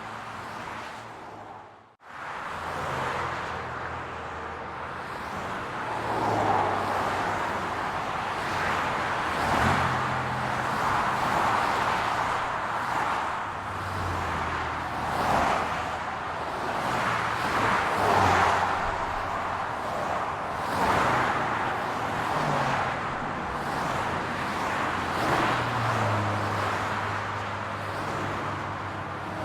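Road traffic: a steady hum of car engines and tyres, swelling every few seconds as cars pass. About two seconds in, the sound briefly fades to near silence and then comes back.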